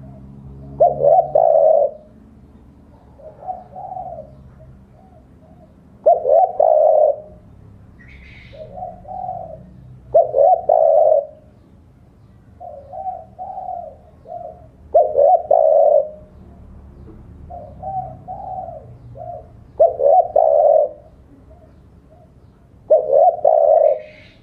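Spotted dove (tekukur) cooing its territorial call, the type that calls out a rival male. A loud cooing phrase comes about every four to five seconds, with softer coos between.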